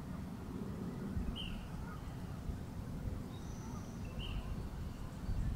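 A steady low outdoor rumble with two short, high bird chirps, about a second in and about four seconds in.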